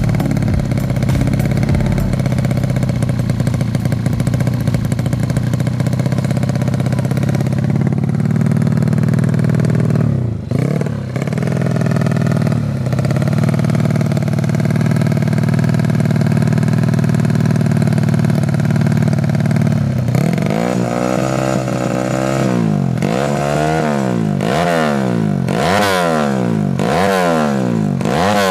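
Yamaha Jupiter 130cc four-stroke single-cylinder engine of a grasstrack underbone bike running steadily at a fast idle, with two brief dips in revs. About two-thirds of the way in, it is revved repeatedly, its pitch rising and falling about once a second.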